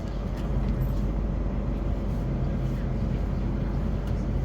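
Class 450 electric multiple unit running along the line, heard inside the carriage: a steady low rumble of wheels on rail.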